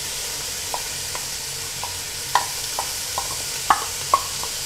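Bacon and sausage slices sizzling steadily in hot oil in a stainless steel pot with diced onion just added, while being stirred. Irregular light knocks and clinks of the spoon and bowl against the pot.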